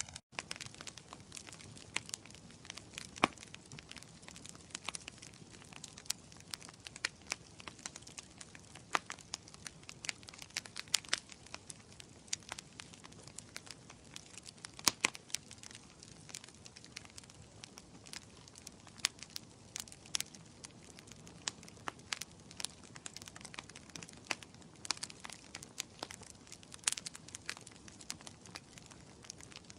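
Wood fire crackling in a fireplace: irregular sharp pops and snaps over a soft steady hiss, a few pops much louder than the rest.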